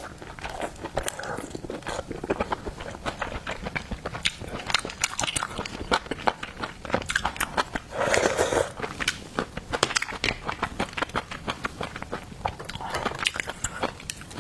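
Close-miked eating of garlic oysters: wet chewing and smacking, with many quick irregular mouth clicks and a short softer mouth sound about eight seconds in.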